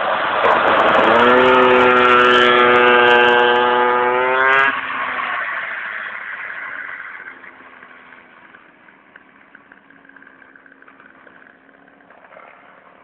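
Minibike engine revving up to a high, steady pitch at full throttle for about three seconds, then cutting off sharply. A fainter engine sound then fades away and hums quietly in the distance.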